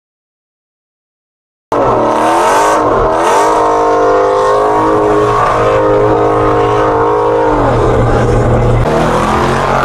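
Dead silence for under two seconds, then a car engine revving hard, its pitch rising and falling several times before it settles into a rougher steady run near the end.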